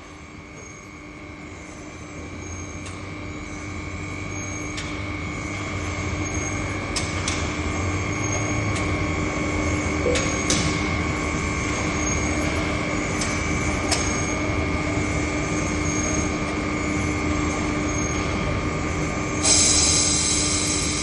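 Foundry machinery running with a steady whine that builds up over the first few seconds, then holds. Scattered metallic clanks run through it, and a burst of hiss comes near the end.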